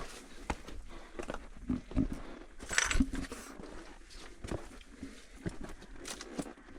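Scuffs and knocks of hands and boots on rock during a steep scramble, with heavy breathing and a short breathy rush about three seconds in.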